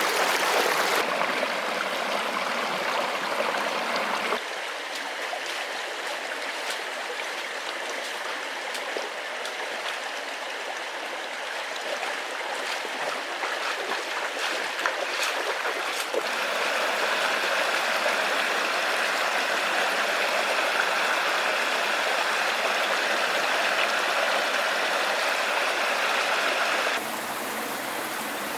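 Forest stream running, a steady rush of water that changes abruptly in loudness and tone a few times, with a few faint clicks in the middle.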